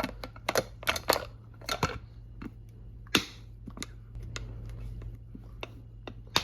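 Plastic food containers and bags being handled on a fridge shelf: a quick run of clicks and knocks in the first two seconds, then scattered clicks, over a faint steady low hum.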